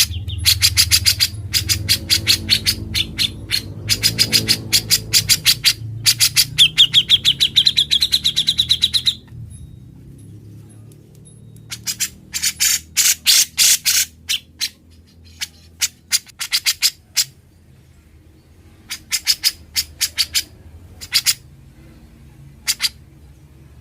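Grey-cheeked bulbul (cucak jenggot) singing loud runs of rapid, sharp repeated notes in the rattling 'ngebren' style, with a fast rising trill about seven seconds in. After that come shorter bursts separated by pauses of a few seconds. A faint low hum runs underneath.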